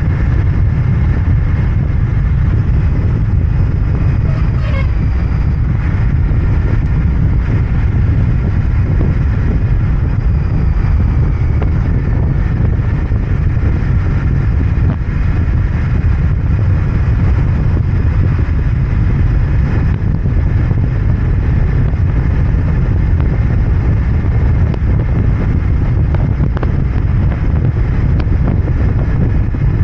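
Royal Enfield Interceptor 650's parallel-twin engine and exhaust running steadily under way.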